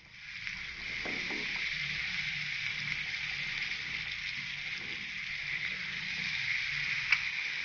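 Masala-coated boiled egg halves sizzling steadily as they shallow-fry in hot oil, with a single sharp pop of spitting oil near the end.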